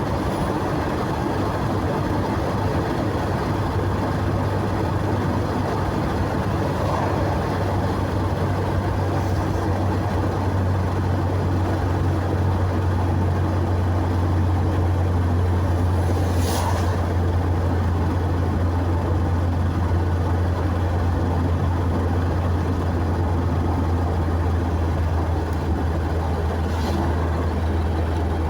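Steady driving noise of a car on the road: a constant low engine and tyre drone that holds even throughout, with a faint brief click about halfway through and another near the end.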